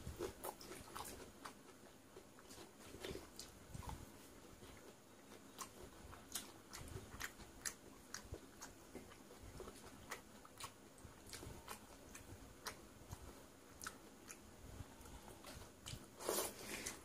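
Close-up chewing and wet mouth sounds of a person eating soaked rice and fried fish by hand: scattered soft clicks and smacks, with a longer, louder wet sound near the end.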